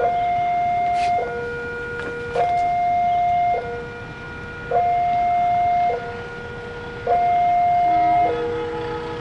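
Railway level-crossing warning alarm sounding a slow two-tone hi-lo signal: a higher tone then a lower one, each held a little over a second and repeating, the higher tone louder. It sounds as the crossing closes for an approaching train.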